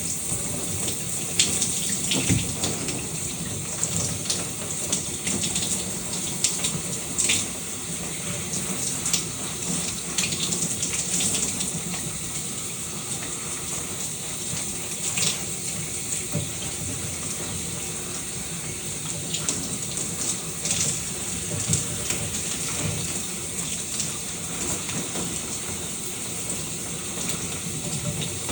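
Shower water running steadily, with short, irregular louder splashes.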